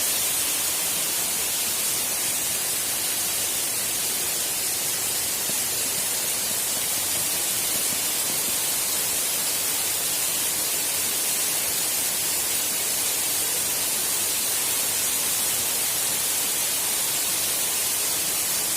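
Waterfall rushing steadily as a constant hiss.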